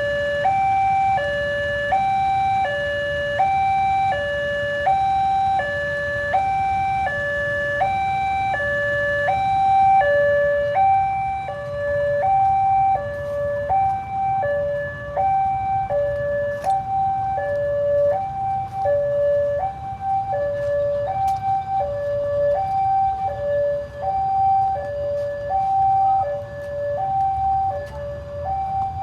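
Railway level-crossing warning alarm sounding a steady two-tone electronic ding-dong, high and low notes alternating about once every half second, signalling that a train is approaching.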